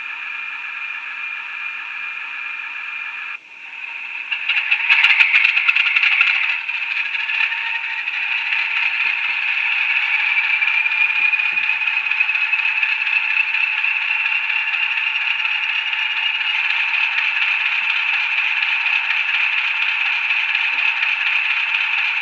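Model Class 50 diesel locomotive's digital sound decoder playing the recorded start-up of its English Electric V16 engine through a small onboard speaker, so there is no bass. After a short break, the engine catches with a burst of rattling clatter about five seconds in, then settles into steady running while a whistle slowly rises in pitch.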